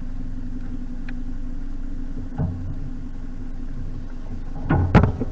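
Narrowboat engine running at a steady low tick-over, with a small knock about halfway through and a loud clunk near the end.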